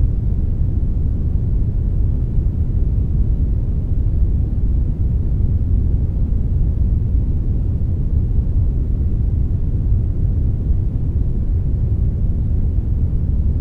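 Steady brownish noise, a blend of brown and white noise: a deep, even rumble-like hiss, strongest in the bass and fading toward the treble, with no changes or events.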